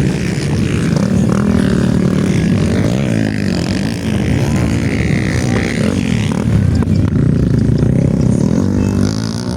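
Several motocross dirt bikes racing, their engines revving up and falling back over and over, the pitches overlapping.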